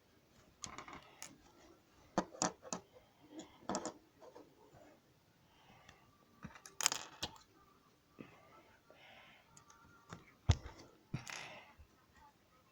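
Small plastic Lego pieces being handled: irregular clicks and rattles as parts knock and snap together, with a couple of longer rustling sounds about seven and eleven seconds in.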